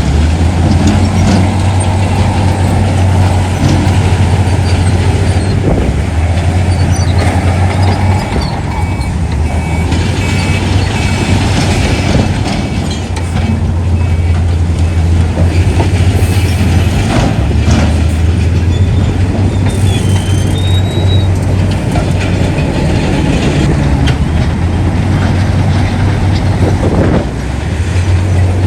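Heavy diesel earthmoving machinery running steadily with a loud low drone, with a few short high squeals and occasional knocks.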